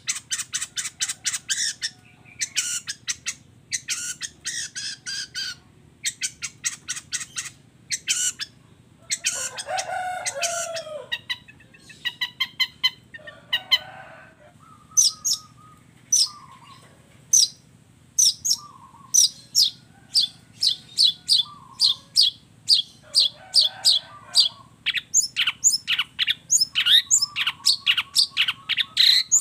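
Long-tailed shrike (cendet) singing a song laced with fill-in phrases copied from other birds. It runs in bursts of rapid, high chattering notes, with a harsher, lower phrase about ten seconds in and fast, dense chattering near the end.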